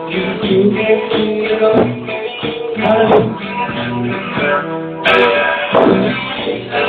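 Guitar music: plucked and strummed guitar playing steady pitched notes, with a sharp new strum about five seconds in.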